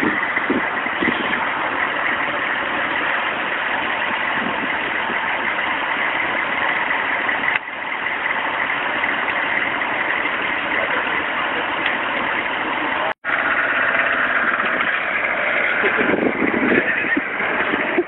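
A motor vehicle's engine running steadily, heard as an even drone, briefly cut off about thirteen seconds in.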